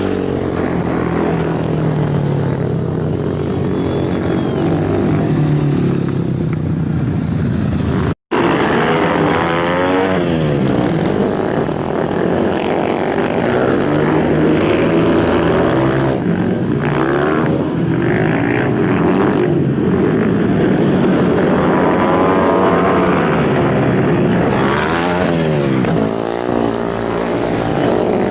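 Superbike engines running hard and revving, their pitch sweeping up and down again and again. The sound cuts out for an instant about eight seconds in.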